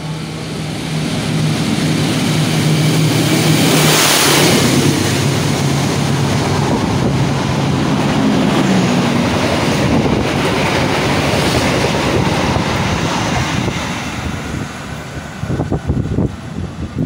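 A diesel-hauled passenger train runs through the station at speed. The locomotive's engine hum grows as it approaches and peaks as it passes about four seconds in. The carriages then rush past with steady wheel-and-rail noise, which gives way to a few irregular sharp knocks near the end.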